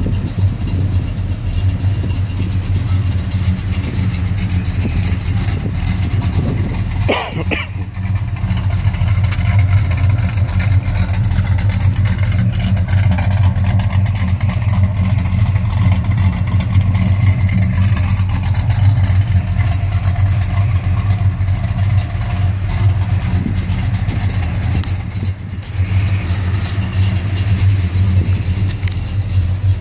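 1974 Plymouth Duster's engine idling steadily, with a short sharp double knock about seven seconds in.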